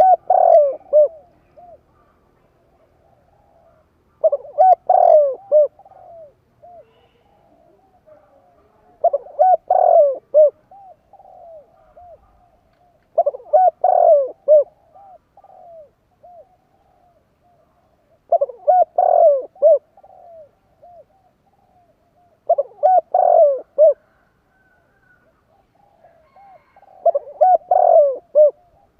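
Spotted dove (tekukur) singing its cooing song: a phrase of several coos about every four to five seconds, seven phrases in all, with quiet gaps between.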